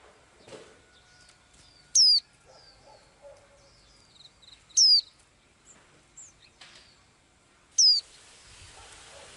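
A small songbird calling: three loud, short whistled notes, each sweeping down in pitch, about three seconds apart, with softer chirps in between.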